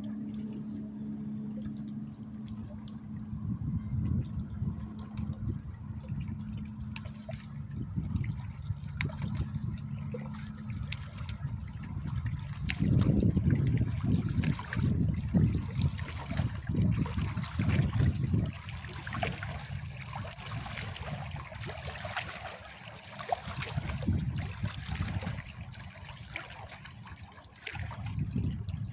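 Small wake waves from a fast boat lapping and splashing at the river's edge, heaviest about halfway through. A steady low hum from the boat's engine fades out over the first twelve seconds.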